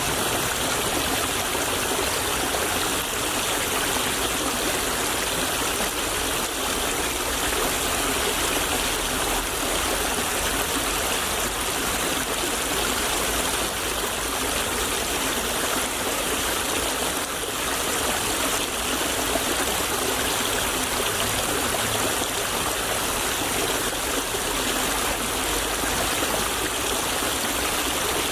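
A small stream of water flowing and trickling steadily over stones, a constant even babble with no pauses.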